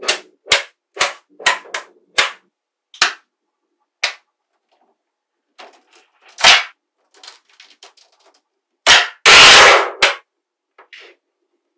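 Magnetic balls snapping together in sharp clicks, about two a second at first, then more sparsely. Near the end a louder clatter of balls lasts under a second.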